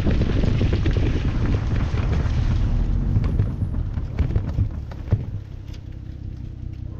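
Wind buffeting the microphone in a heavy, uneven rumble that dies down over the last couple of seconds, with a few sharp knocks about four to five seconds in.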